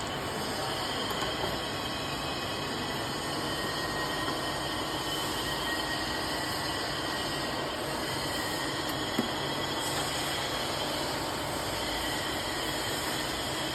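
X6325 turret milling machine head running: a steady mechanical hum with faint high whining tones.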